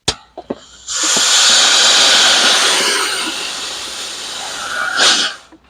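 A click, then pressurised CO2 hissing out of a SodaStream cylinder refill adapter for about four and a half seconds, easing a little and ending in a short louder gust before it cuts off: the gas trapped in the adapter being bled off after the supply tank's valve is shut.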